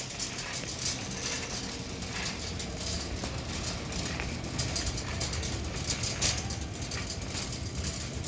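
Shopping cart rattling and clicking as it rolls through the store, over a steady low rumble.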